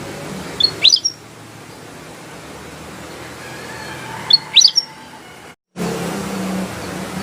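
Kutilang emas bulbul singing: two short phrases, each a quick run of three or four rising whistled notes, about three and a half seconds apart, over a steady low background hum. All sound cuts out briefly near the end.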